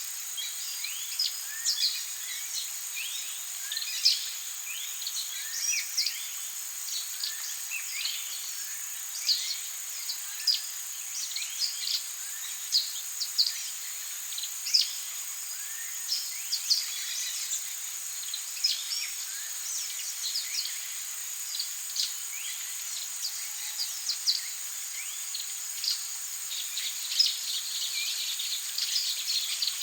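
Amazon rainforest chorus: a steady high-pitched insect drone under a busy scatter of short bird chirps, many of them quick downward-sliding notes, with a few louder calls standing out.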